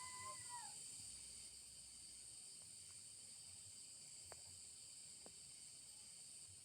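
Faint, steady chorus of night insects such as crickets, sitting high in pitch. A held tone fades out about half a second in, and a few faint clicks follow.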